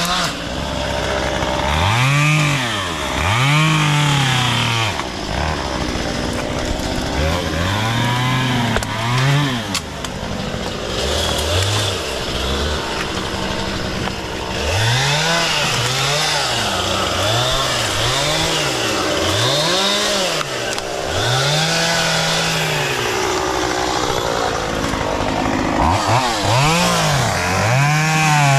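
Chainsaw engine revving up and dropping back again and again as it cuts through brush and small wood, with short spells of lower running between cuts.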